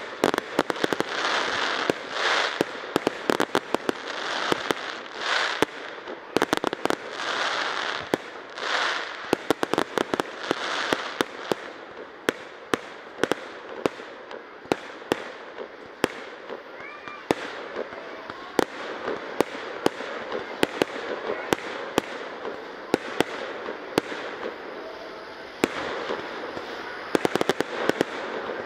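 Aerial fireworks display: a rapid, irregular string of sharp bangs from bursting shells throughout, with swells of rushing noise between them over the first twelve seconds or so.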